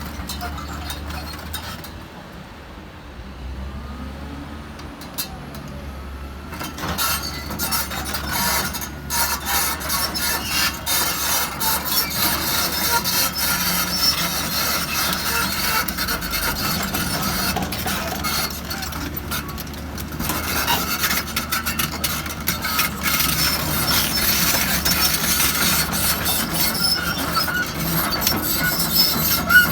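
Hydraulic excavator working: a steady low engine drone under many knocks and a rasping, scraping noise that grows louder about seven seconds in.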